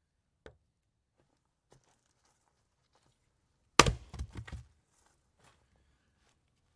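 A single sharp knock just under four seconds in, followed at once by a quick clatter of smaller knocks that dies away within a second, with a faint click near the start.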